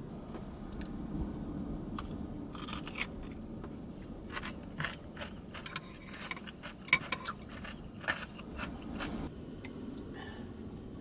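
Irregular crunching with sharp clicks, like something crunchy being chewed, from about two seconds in until shortly before the end.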